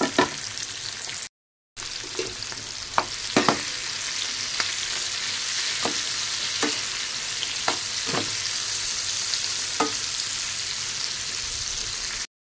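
Stuffed okra frying in hot oil in a metal pan, a steady sizzle, with about ten sharp clacks of the spatula against the pan as the okra is stirred. The sound drops out for about half a second near the start.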